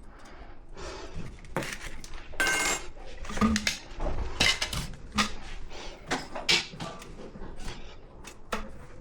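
Metal tools and fittings being handled and set down: irregular clinks and knocks, a few with a brief metallic ring.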